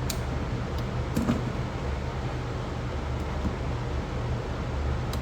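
A steady low mechanical hum, with a few small clicks: one right at the start, one about a second in and one near the end.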